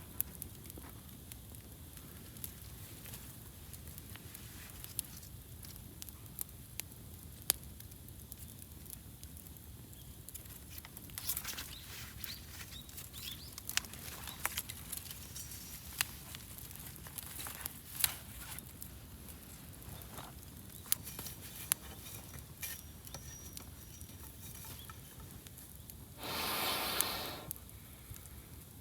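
Wood campfire crackling with irregular sharp pops and snaps over a low steady background, the pops thickest in the middle. Near the end a rushing hiss swells for about two seconds and fades.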